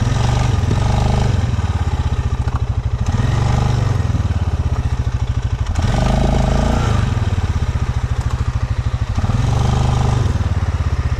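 Stels Leopard 650 quad bike's engine revving in repeated surges roughly every three seconds, easing to a pulsing lower speed between them, as the quad labours in deep snow.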